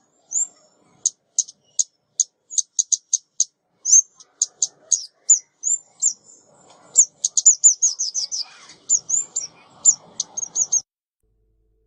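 Female ốc mít songbird calling in quick runs of short, high chirps, used as a lure call for trapping. The chirps stop about a second before the end, with a faint low rustle under the last few seconds.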